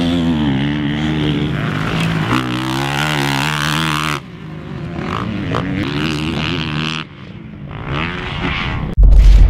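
A Honda CRF450R motocross bike's single-cylinder four-stroke engine revving hard, its pitch rising and falling as it is ridden, in segments that cut off abruptly about four and seven seconds in. Near the end a loud low rumble starts.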